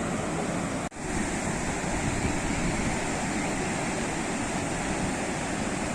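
Sea waves washing ashore in a continuous rushing surf. The sound drops out for an instant about a second in, then returns.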